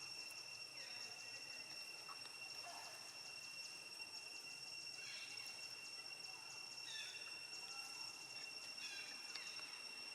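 Faint ambience: a steady high-pitched drone, with short high chirps that fall in pitch every couple of seconds in the second half.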